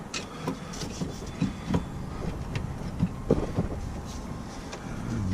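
Irregular metallic clicks and knocks of hand tools working on a car's rear brake caliper, with a handful of sharp taps spread unevenly.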